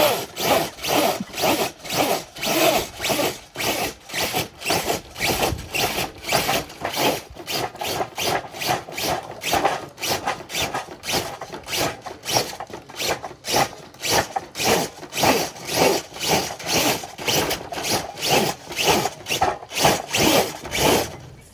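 RC scale crawler truck's electric motor and drivetrain straining under load as it drags a brick-weighted dead sled, surging and easing in a regular rhythm of about two pulses a second.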